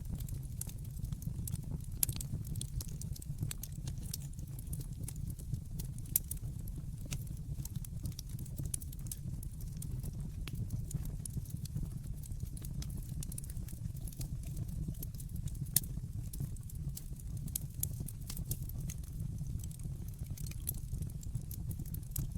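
Wood fire burning in a fireplace: a steady low rumble of the flames with frequent sharp crackles and pops, a few louder pops about 2, 6 and 16 seconds in.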